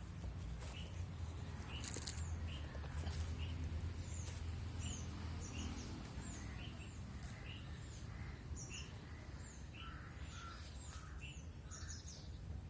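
Small birds chirping over and over, short high chirps about every half second, over a low steady rumble.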